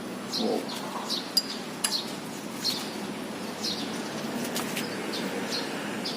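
A bird chirping repeatedly in short, high, falling notes every half second or so, with a few sharp metallic clicks.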